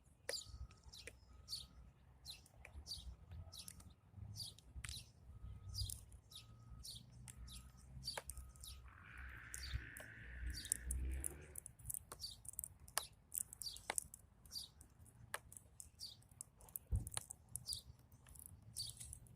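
Small birds chirping, short high chirps several times a second, with a few faint clicks and a brief noise about nine seconds in.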